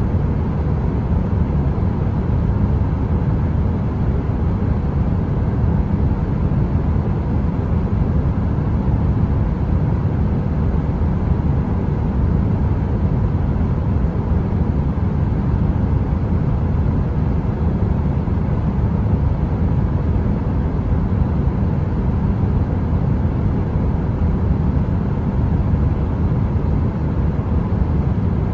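Heater noise: a steady, deep rumbling hiss, heavy in the lows like brown noise, with a faint steady hum and no crackle, unchanging throughout.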